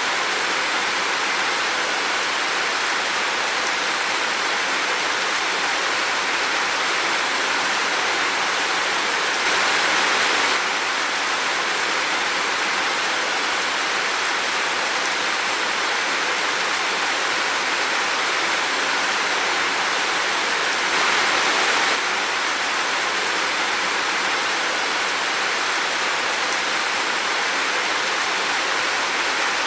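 Heavy rain falling as a dense, even hiss, swelling slightly for a moment about ten seconds in and again about twenty-one seconds in.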